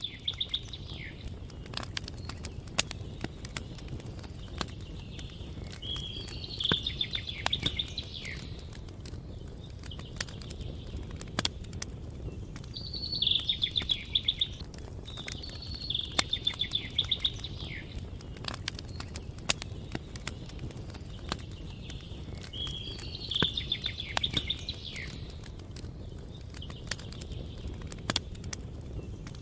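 A small songbird repeating a short trilled song phrase every few seconds, over a campfire crackling with scattered sharp pops and a steady low rumble.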